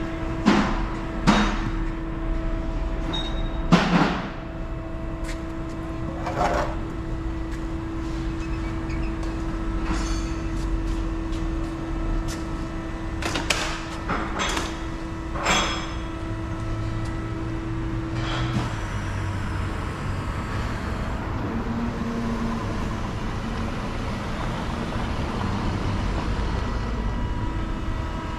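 Exhaust-shop background: a steady hum that cuts off about two-thirds of the way through, with scattered sharp knocks and clanks, the loudest within the first four seconds.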